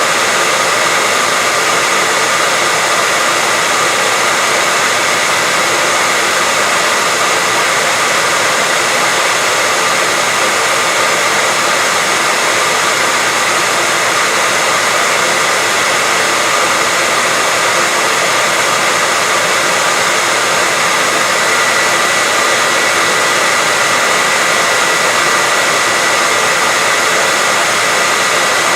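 Continuous white noise: a loud, unchanging hiss, brighter than it is deep, with a faint thin steady tone running through it.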